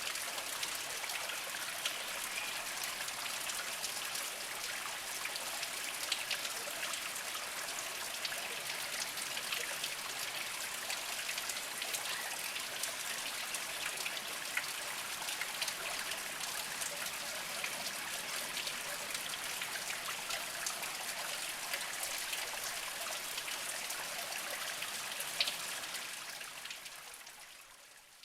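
Small mountain spring trickling slowly over mossy rocks: a steady splashing hiss full of fine droplet ticks, fading out near the end.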